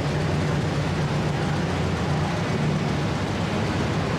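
A vehicle running steadily: a low engine drone under a constant rushing noise, with no revving and no sudden events.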